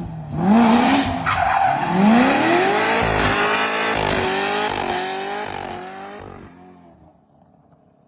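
A drifting car's engine revving hard, its pitch climbing and dropping again and again, over the screech of tyres skidding sideways. It fades away in the last second or so.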